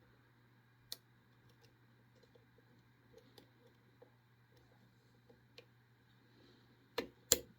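Lock pick working the pins inside a pin-tumbler lock cylinder: faint scattered ticks and clicks as pins are lifted and set under tension. Near the end come two loud sharp clicks as the plug turns and the lock opens.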